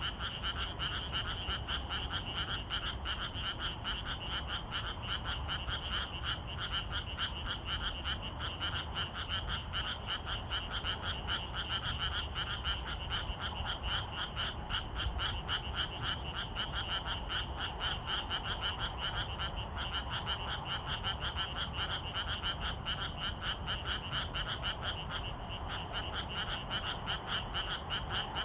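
A chorus of many frogs calling together: a dense, unbroken stream of rapid, overlapping croaks.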